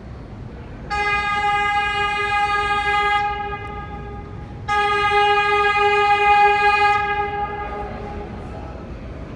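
New York City subway train horn sounding two long, steady blasts about a second and a half apart, over the rumble of the station.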